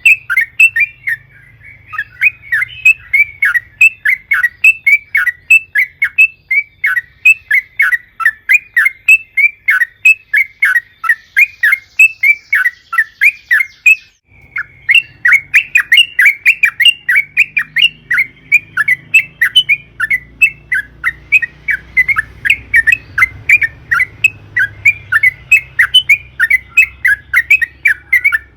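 Yellow-vented bulbul (trucukan) singing a long run of rapid, loud chattering notes, about three to four a second, breaking off briefly about halfway through and starting again.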